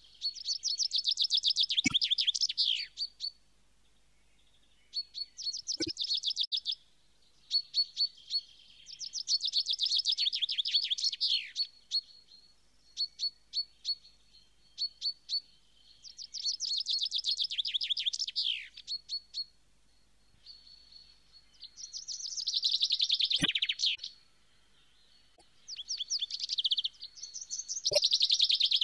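A songbird singing: bouts of fast, high trilled notes that end in quick falling sweeps, repeated every few seconds, with short chirps in between.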